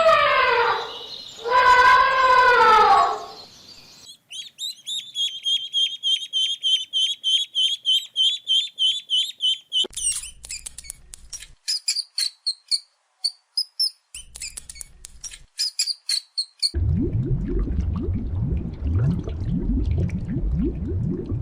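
A run of different animal calls. It opens with a long pitched call that falls away. Then a bird gives fast repeated high chirps, followed by scattered chirps and clicks, and near the end comes a low, rough, pulsing sound.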